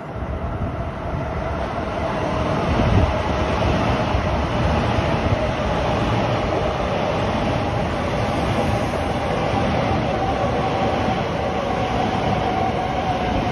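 A passenger train running close by: a continuous rumble of wheels on rails that grows louder over the first couple of seconds, then holds steady, with a steady mid-pitched tone running through it.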